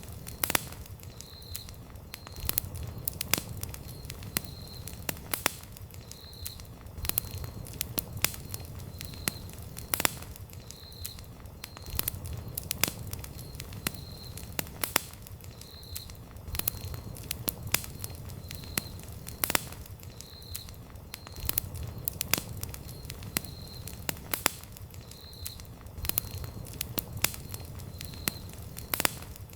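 Wood campfire burning, with sharp crackles and pops at irregular intervals over a low steady rumble of the flames. A faint high chirp repeats about every second and a half behind it.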